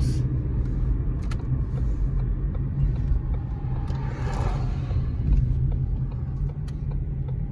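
Car interior rumble of the engine and road while driving, steady and low, with a few light clicks and a brief swell of noise about four seconds in.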